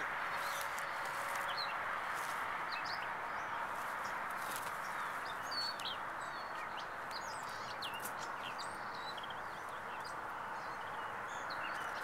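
Birds chirping, with short high notes scattered all through, over a steady rushing outdoor background noise.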